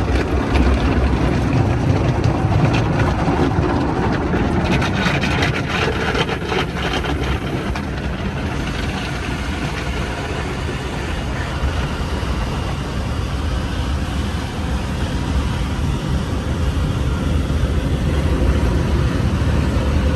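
Steady low road and engine rumble inside the cabin of a moving Mercedes-Maybach GLS 600, with faint clicking for a few seconds near the start.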